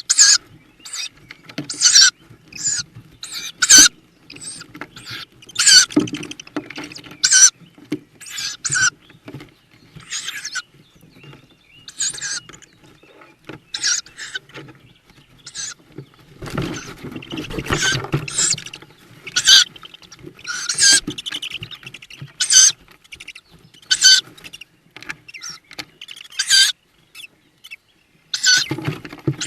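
Tawny owl chicks in the nest box giving short, hissing begging calls over and over at irregular intervals, with a few seconds of scuffling movement in the box about two-thirds of the way through.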